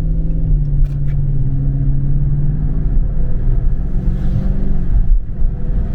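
The 6.4-litre 392 HEMI V8 of a 2017 Dodge Charger Scat Pack is pulling under throttle with a deep steady note. The pitch climbs a little until a sudden brief drop about five seconds in, like a gear change, then it picks up again. Two faint clicks come about a second in.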